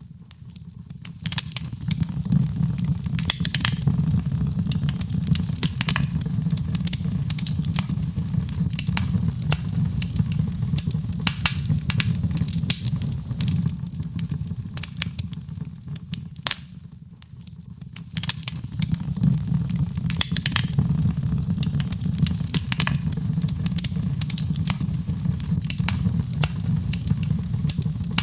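Wood fire in a fireplace crackling and popping with many scattered sharp snaps over a steady low rumble of flames. It dips quieter briefly about two-thirds of the way through before picking up again.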